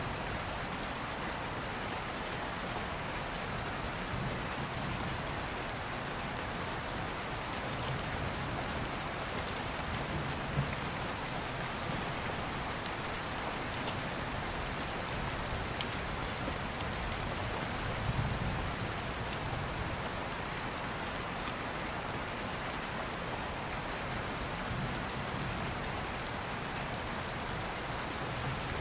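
Steady rain falling, with low thunder rumbles swelling now and then and a few faint clicks.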